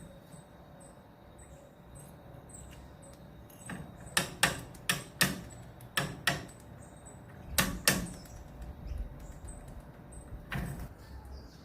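A run of sharp taps or knocks, about ten of them, clustered between about four and eight seconds in, with another near the end, over faint high chip notes repeating about twice a second.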